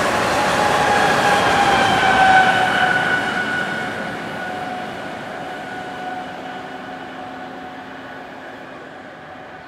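Amtrak Acela Express high-speed trainset passing at speed and going away: a rush of wheels and air, loudest a couple of seconds in and then fading, with a high whine that drops slowly in pitch as the train recedes.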